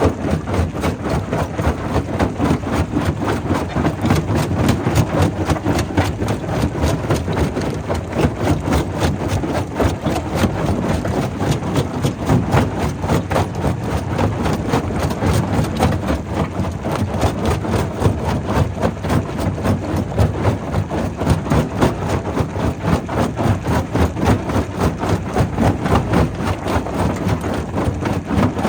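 Primary rock crusher running at a quarry: a steady heavy machine drone with rapid, continuous knocking and clatter.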